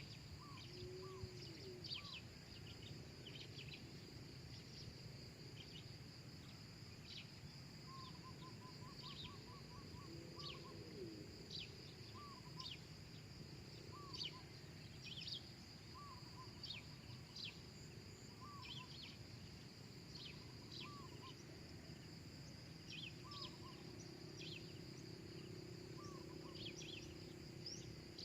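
Spotted dove cooing faintly, a few soft low coos heard about a second in, around ten seconds in and near the end. Other birds call over it: a short call repeats every second or two, with a quick trill about eight seconds in, and many high chirps sit above a steady high insect drone.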